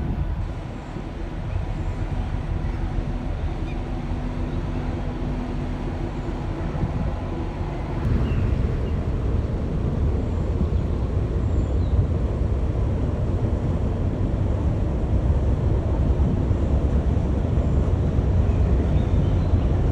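Low, steady drone of a passing cargo ship's engine with wind buffeting the microphone; a faint hum sits over the rumble at first, and the rumble grows louder about eight seconds in.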